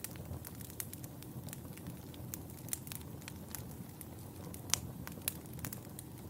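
Wood fire burning in a fireplace: a steady low rumble of flames with frequent sharp crackles and pops, the loudest pop about three-quarters of the way through.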